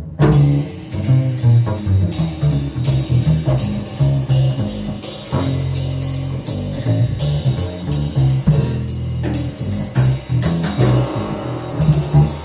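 Jazz double bass played pizzicato, its low plucked notes up front, with the drum kit coming in right at the start: cymbals shimmering over the bass line.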